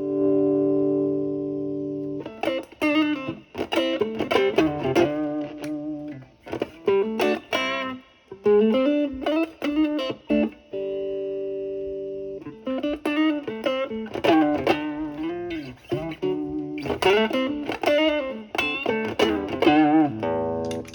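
Stratocaster electric guitar played through an overdrive pedal into a Marshall Valvestate amp's clean channel, with the guitar's volume rolled back so the drive cleans up to a light crunch. Held chords ring out at the start and again about eleven seconds in, with quick blues licks of single notes between them.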